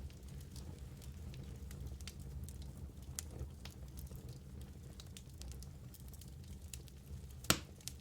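Wood logs burning in a fireplace, crackling with scattered small pops over a low, steady rumble of flame, and one louder pop near the end.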